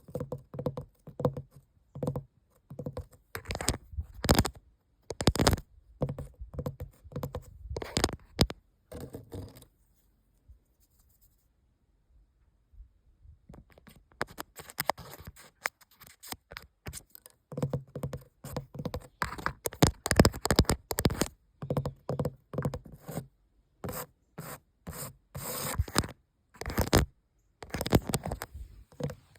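Scratching and scraping on a hard surface in quick runs of short strokes, with a pause of about three seconds near the middle.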